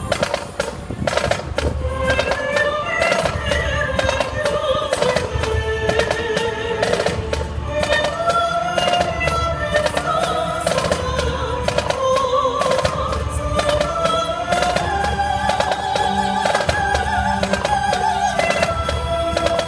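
Live band music from a marching percussion show: a wavering melody carried over fast, loud drumming, with a low beat pulsing about every second and a half.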